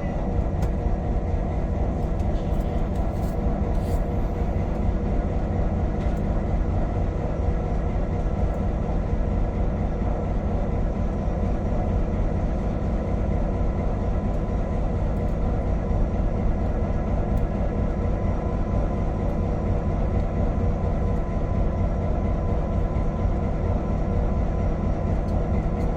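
Diesel engine of former V/Line P class locomotive P20 running steadily, a constant drone with a steady hum.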